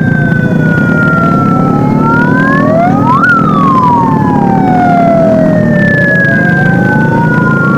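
Several electronic wail sirens sweeping slowly up and down out of step with each other, over a steady low engine rumble.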